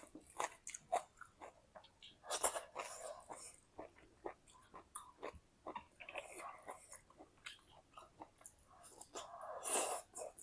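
A person chewing and eating close to the microphone: a run of wet mouth clicks and smacks, with louder bites about two and a half seconds in and again near the end.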